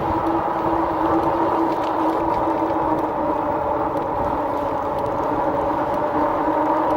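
RadRover electric fat-tire bike's hub motor whining at a steady pitch under pedal assist, over a low rumble of wind and tyres on the microphone.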